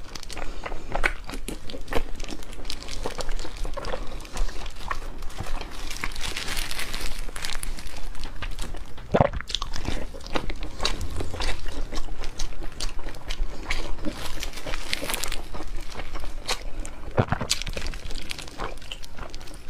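Biting and chewing braised pork belly, with wet mouth clicks and smacks and a few louder sharp clicks, along with the crinkle of a plastic glove.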